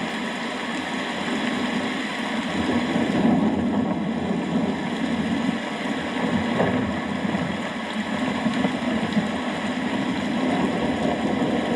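Steady heavy rain falling, with a continuous low rumble underneath and no distinct thunderclap.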